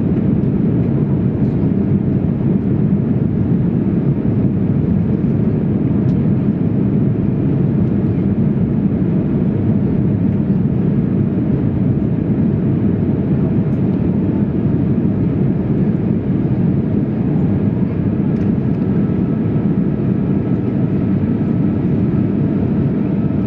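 Steady cabin noise inside a jet airliner: an even, unbroken low rumble of engines and rushing air.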